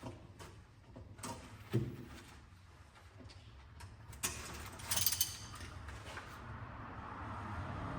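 Metal hand tools and engine parts being handled during a bottom-end teardown: scattered clicks and knocks, with a louder burst of metallic clattering about five seconds in.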